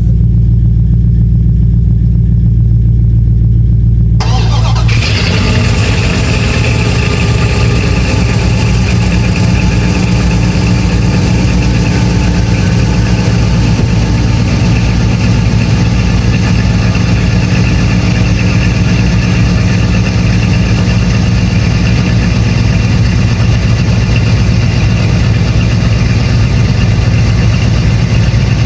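A low steady hum, then about four seconds in the 1997 Dodge Ram 1500's 5.9-litre V8 cranks briefly and catches on a cold start, then idles steadily.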